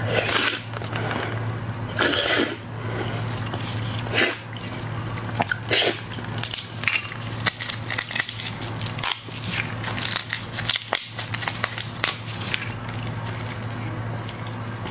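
Close-miked eating of shell-on shrimp or lobster: shells cracking and crunching, with wet squishing and chewing in many short bursts and sharp cracks, over a steady low hum.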